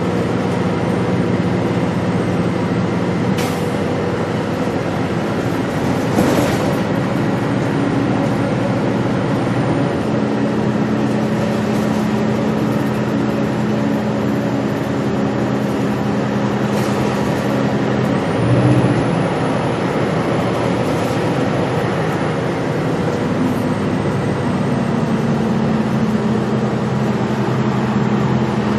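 Gillig Low Floor transit bus running under way, heard from on board with the HVAC off: a steady engine and drivetrain drone whose pitch shifts about ten seconds in and again near eighteen seconds, with a few brief clicks and rattles.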